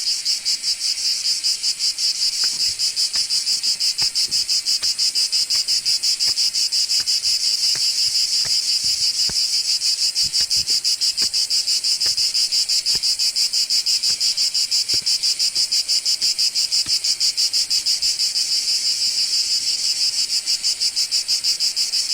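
Dense insect chorus: a loud, shrill, steady trill that pulses rapidly several times a second, with a few faint clicks underneath.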